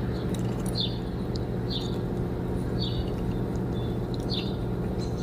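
Short high chirps repeating about once a second over a steady low hum.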